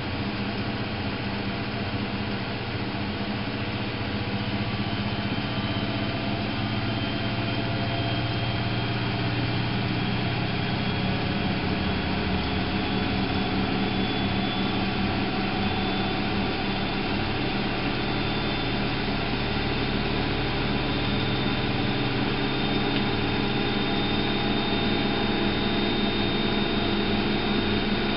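Miele Novotronic W830 washing machine running: a steady motor hum with a faint high whine, slowly growing louder.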